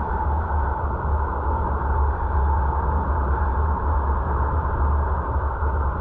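A car driving at speed, heard through a dashcam: a steady low rumble of engine and tyres with wind noise, unchanging throughout.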